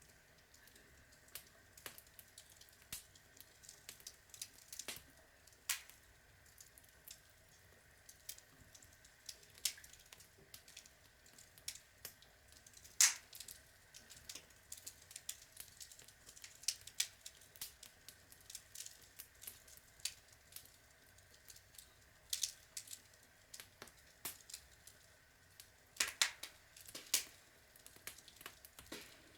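Outdoor log fire burning, wood crackling and popping irregularly over a faint steady hiss, with one sharper pop about midway and a cluster of pops near the end.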